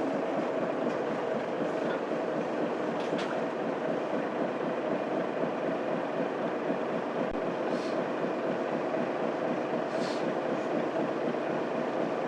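Mitsubishi Fuso Aerostar city bus driving, heard inside the cabin: its 6M70 12.9-litre diesel engine running steadily under way with road noise, and a few faint clicks.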